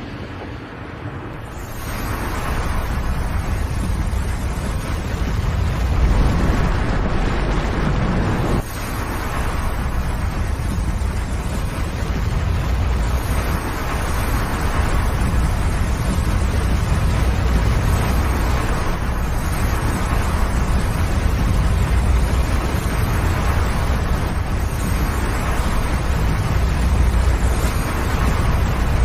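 Avalanche rumbling: a continuous deep roar with a rushing noise over it, swelling about two seconds in and briefly breaking off about eight and a half seconds in.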